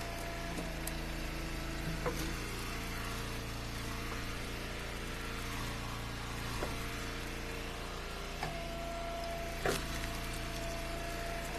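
Eastonmade wood splitter's engine running steadily, with a higher whine that comes and goes and a few sharp cracks and knocks, about three in all, as firewood rounds are split.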